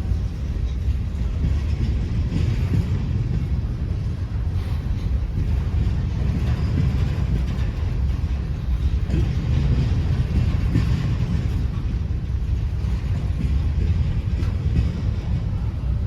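Norfolk Southern grain train rolling past, its cars making a steady low rumble on the rails with faint scattered clicks.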